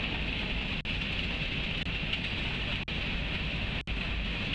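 Freight train cars rolling past on the rails, a steady rumble and hiss through a low-quality railcam microphone. The sound cuts out briefly about three times.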